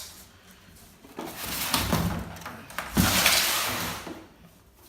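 A boxed machine being pulled out of its cardboard box and thermocol packing: scraping and rustling, with a knock about three seconds in.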